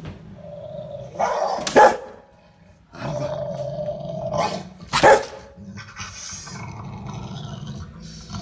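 Dog growling, broken by two loud barks, one about two seconds in and one a little past halfway.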